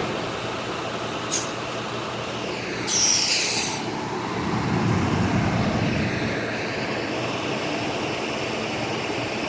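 Bus traffic over steady wind noise: a short hiss of air brakes about three seconds in, then a low engine rumble that swells and fades.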